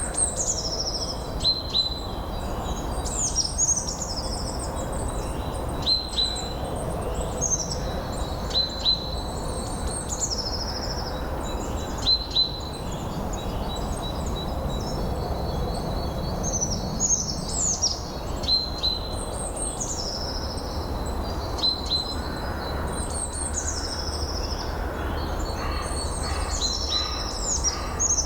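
Songbirds singing, with short high phrases that sweep downward and sharp chip notes repeating every second or two, over a steady low wind noise.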